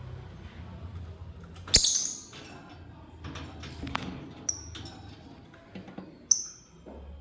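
Lovebirds giving a few short, high chirps among sharp clicks and taps. The loudest moments are a sharp click with a shrill burst just before two seconds in, and a chirp near the end.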